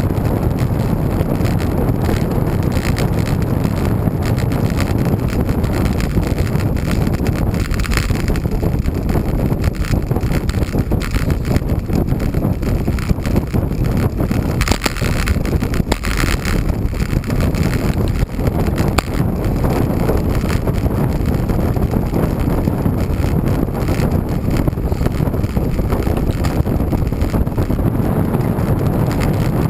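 Loud, steady wind rush buffeting the microphone of a moving road bicycle, heaviest in the low end.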